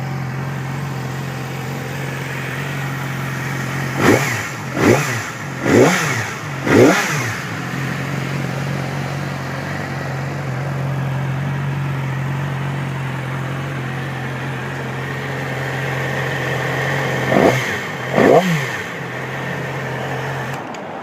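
2009 Yamaha YZF-R6's 600cc fuel-injected inline-four idling steadily, blipped four times in quick succession about four seconds in, then twice more near the end, each rev rising and falling sharply.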